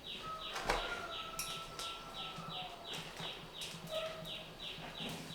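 Quick, even footsteps, about three a second, as someone walks briskly away.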